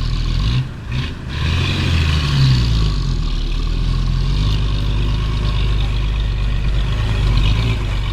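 Dump truck engine running steadily, with a short dip in level about a second in.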